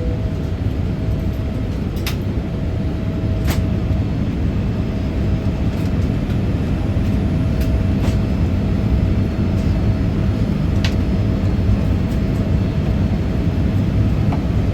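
Steady cabin noise of a Boeing 787-8 Dreamliner in flight: the low drone of engines and airflow heard from a seat inside the cabin, with a faint steady hum and a few faint clicks.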